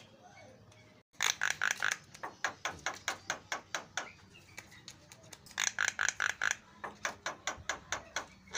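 Javan myna (jalak kebo) calling: two bouts of rapid, harsh chattering notes, each starting loud and trailing off into spaced clicks.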